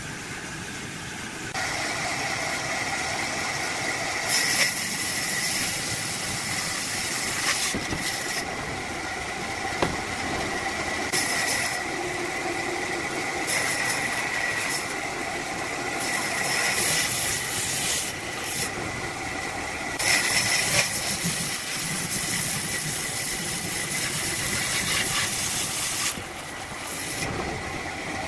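Wood lathe running with a steady whine, while a turning tool cuts the spinning wood in on-and-off spells of hiss, some lasting several seconds.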